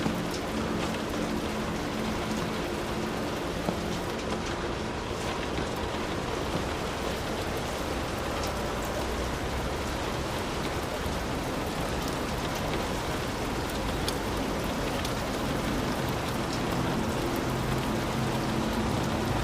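Heavy, steady rain with individual drops tapping sharply close by. A faint low steady hum sits under it during the first few seconds and again near the end.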